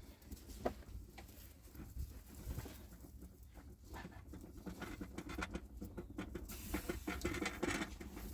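Irregular pattering of animal hooves, likely a goat herd moving over the ground, growing busier about six and a half seconds in.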